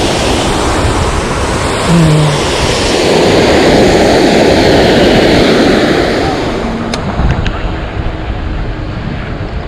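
Rushing, splashing water of a fountain that swells to a loud hiss and then fades, as when it is ridden past.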